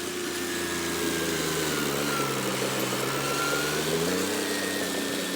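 John Deere 5210 tractor's diesel engine working hard pulling an 18-disc harrow: its note sags as the load drags the revs down, then picks back up about four seconds in.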